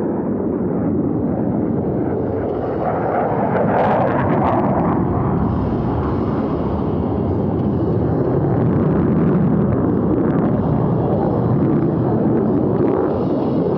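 Boeing F/A-18 Super Hornet's twin jet engines in afterburner during a high-G turn: a loud, steady, rough jet roar, with a burst of crackling about four seconds in.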